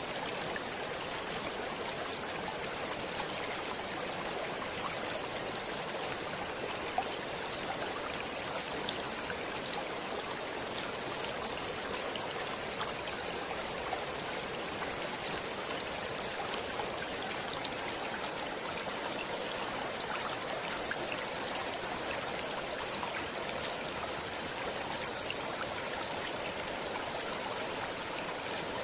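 Stream water flowing steadily: an even rushing with many small splashes and drips.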